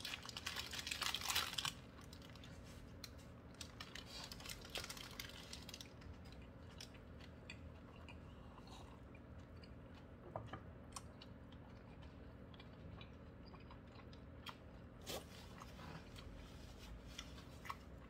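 A person biting into a hamburger held in a paper wrapper, with paper rustling for about the first two seconds, then faint chewing with scattered small clicks.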